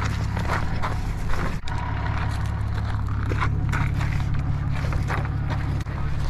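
A car running, with a steady low engine and road hum and scattered small clicks and knocks.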